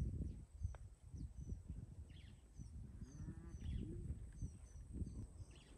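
Small birds chirping: a scattered string of short, high, quick downward chirps, over a faint, irregular low rumble with soft knocks.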